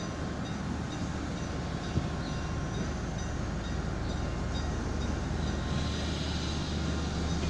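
Diesel locomotive of a passenger train running steadily with a low engine hum, a single light knock about two seconds in, growing a little louder near the end.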